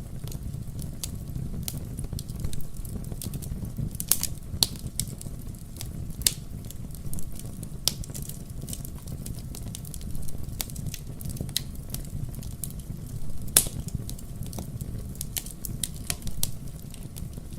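Fire burning in a fireplace: a steady low rumble of flames with irregular sharp pops and snaps, and one louder pop about three-quarters of the way through.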